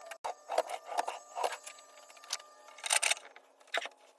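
Small objects being handled and set down: a string of light knocks, clicks and rattles, with the loudest clatter about three seconds in.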